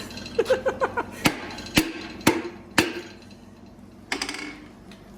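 A piston being tapped down through a ring compressor into a Jeep 4.0 inline-six's cylinder bore: a quick run of light ringing metal clicks, then four sharp taps about half a second apart.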